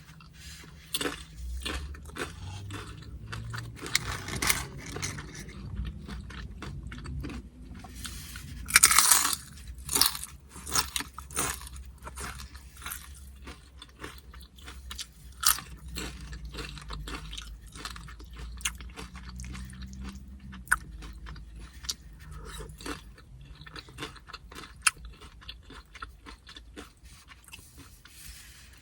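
Close-up crunching and chewing of tortilla chips loaded with toppings, many short crackling bites, with the loudest crunch about nine seconds in.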